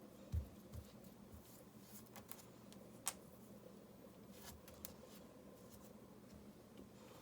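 Near silence over a faint steady hum, broken by scattered small clicks and taps, a soft thump about a third of a second in and a sharper click about three seconds in.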